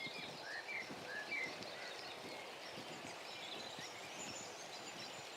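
Birds calling: a few short chirps in the first second and a half, then fainter high calls, over a steady background hiss.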